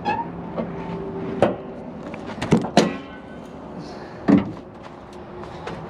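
2003 Chevy Silverado's hood being popped and opened: four separate clicks and clunks from the hood release, latch and hood, spread over a few seconds.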